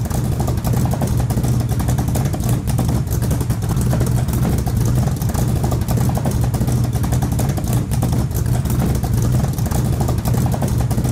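A machine running steadily and loudly, with a deep hum and a fast, even rattle.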